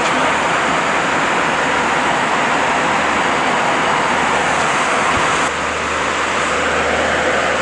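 Airbus A320 cabin noise in cruise: a steady rush of airflow and engine sound, dipping slightly about five seconds in.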